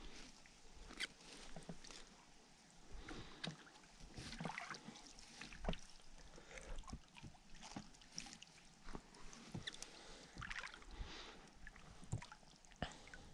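Faint water splashing and dripping with irregular light knocks and clunks against a small fishing boat as it is worked on the water.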